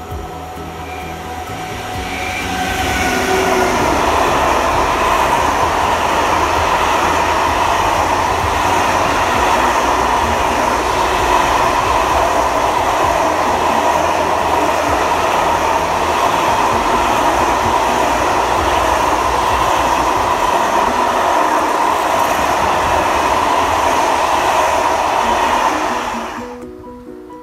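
Electric-hauled freight train of sliding-wall wagons passing close by: the noise builds over the first few seconds as it approaches, then a steady loud rumble and rattle of wagon wheels on the rails, which cuts off abruptly near the end.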